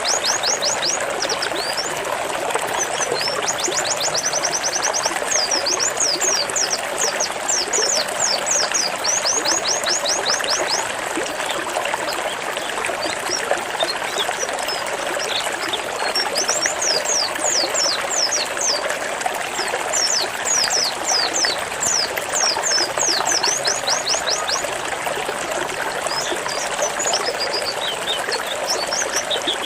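White-eye (pleci) singing its 'zipper' song: fast runs of short, high, descending notes, pausing for a few seconds near the middle, over a steady trickling water sound.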